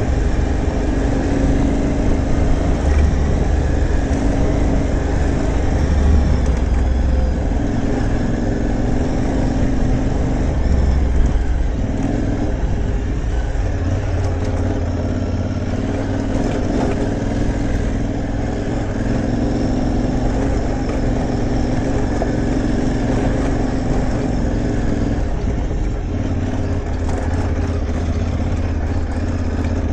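Aprilia Tuareg 660's parallel-twin engine running while the bike is ridden, its note holding steady for stretches and stepping up and down in pitch with the throttle, over a constant rush of noise.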